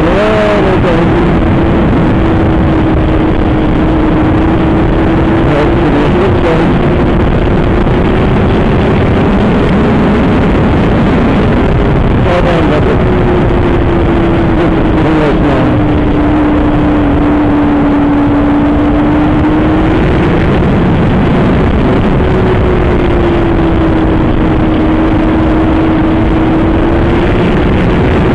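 Superbike engine running hard at speed under heavy wind roar, heard from a cellphone inside the rider's helmet. The engine note holds steady, drifting slowly up and down, and climbs briefly a few times.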